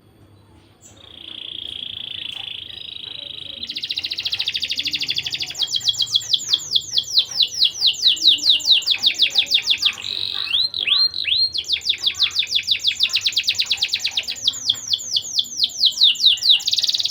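Domestic canary singing a long unbroken song. It opens with a buzzy trill and moves into fast runs of repeated down-sweeping notes. About ten seconds in come three slower dipping whistles, then more fast repeated notes, ending on a buzzy trill.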